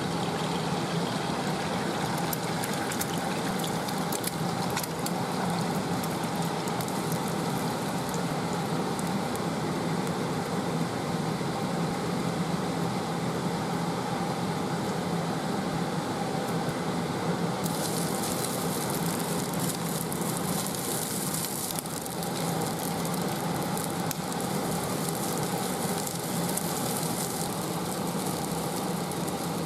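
Food frying in a pan: steady sizzling over a low hum, growing brighter and hissier from about eighteen seconds in until a few seconds before the end.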